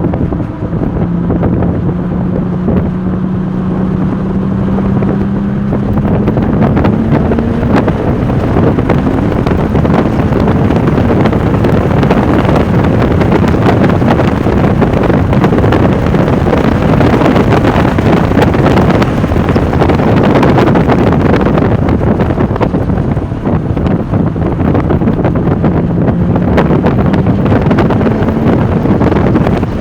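Porsche 996 Turbo's twin-turbo flat-six pulling hard at speed on a race track, its pitch climbing through the first several seconds and again near the end, under heavy wind buffeting on the microphone.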